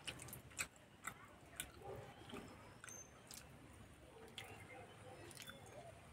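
Faint chewing and soft mouth sounds of people eating a soft, spongy eggless chhana cake, with scattered small clicks.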